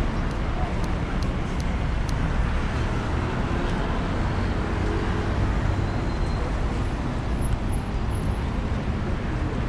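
Steady road traffic: cars and buses running along a busy urban street, a continuous rumble with a few faint clicks in the first couple of seconds.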